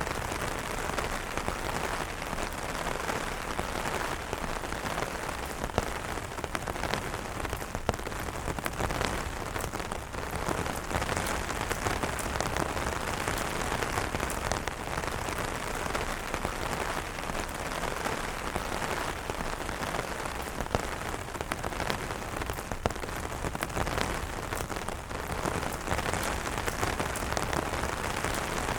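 Steady rain falling on umbrella fabric: a continuous hiss of rain with many separate drops ticking sharply, a few louder than the rest.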